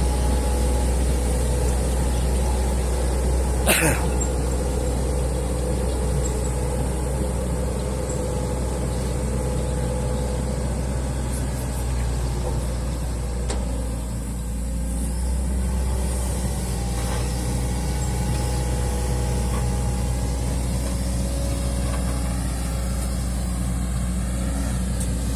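Excavator's diesel engine running steadily under work, with a sharp knock about four seconds in.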